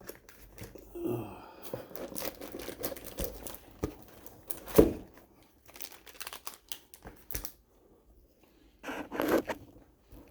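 Close handling noise: crinkling and rustling of packaging, with scattered taps and knocks. The loudest knock comes about five seconds in, and another burst of rustling comes near the end.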